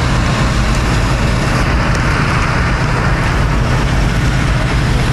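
Steady low rumble of idling vehicle engines under a continuous even hiss, with no breaks or changes.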